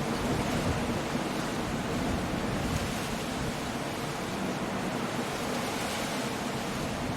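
Coastal storm: stormy surf with wind and rain, blended into a steady, even rush of noise.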